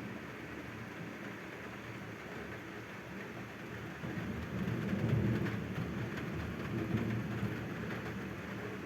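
Steady rain falling. A low rumble swells about halfway through and fades over a few seconds.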